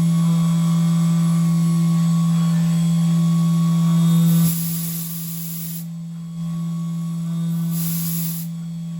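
Syil X7 CNC mill spindle running with a steady hum while machining aluminium parts. The level drops about halfway through, and two short bursts of hissing come in, one midway and one near the end.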